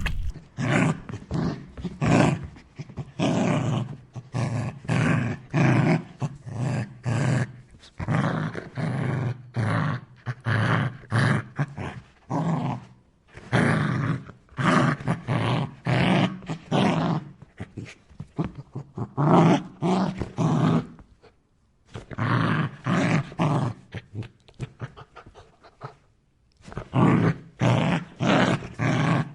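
A dog barking and growling in rapid short bursts, two to three a second, with a few brief pauses.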